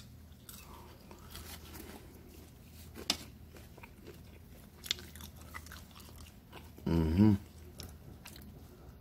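Close-up chewing and biting of crisp baked pizza snack rolls, with scattered light clicks. A short, louder pitched sound, voice-like, comes about seven seconds in.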